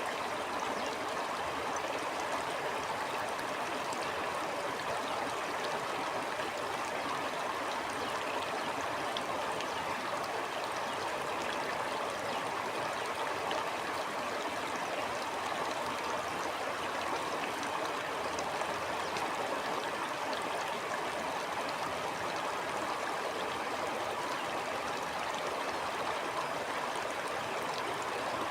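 A stream flowing: a steady, unbroken rush of water with no separate splashes or pauses.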